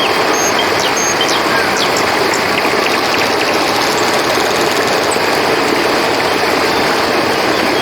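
Steady rush of flowing river water, with scattered short, high-pitched chirps and quick falling whistles over it.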